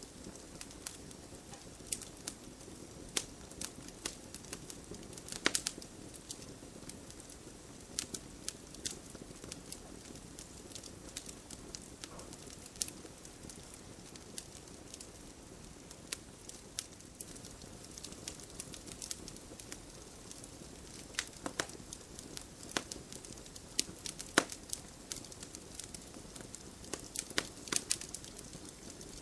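Wood campfire burning with a steady low hiss and irregular sharp crackles and pops.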